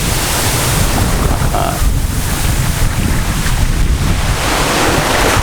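Wind buffeting the microphone with a steady, heavy low rumble, over the wash of sea surf on a beach.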